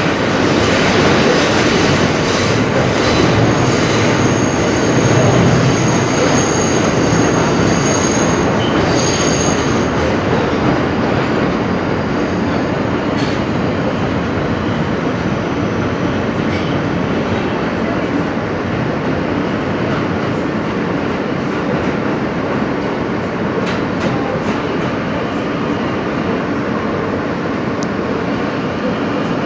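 Inside an R160B subway car running at speed: steady rumble of wheels on rails, with a thin, high-pitched wheel squeal from about four to ten seconds in and a few rail-joint clicks.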